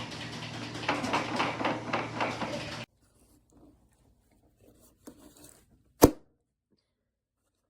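Quick, irregular tapping and clattering over a low steady hum, which cuts off abruptly about three seconds in. After a near-silent stretch with a few faint ticks, one loud sharp knock comes about six seconds in.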